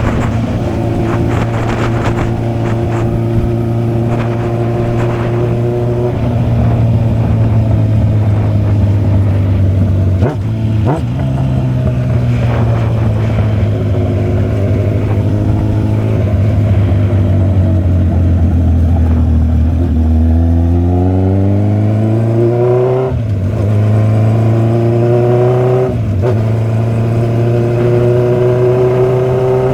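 Motorcycle engine running under way, holding a fairly steady pitch at first. About two-thirds of the way through it accelerates through the gears: the pitch climbs, drops at a shift, climbs again and drops at another shift.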